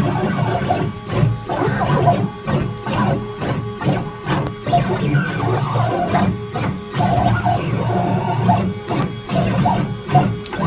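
CNC machine's stepper motors driving a drag knife along a cutting path through foam board: pitched whines that shift in pitch with each short move and break off between moves.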